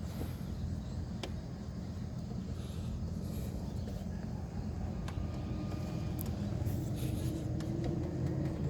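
Peugeot 508's engine running steadily, a low even hum with a few faint clicks.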